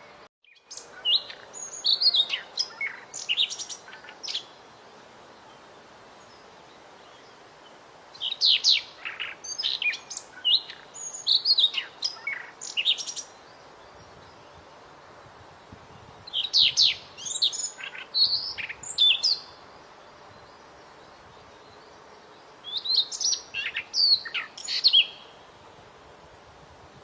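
A small songbird singing in four bouts of quick, varied high chirps, whistles and trills, each a few seconds long and separated by pauses of a few seconds, over a faint steady hiss.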